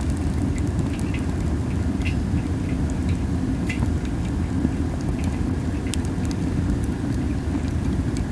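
Masaki (Japanese spindle-tree) wood burning in a small fire, giving scattered sharp crackles and pops at irregular intervals over a steady low rumble of wind on the microphone.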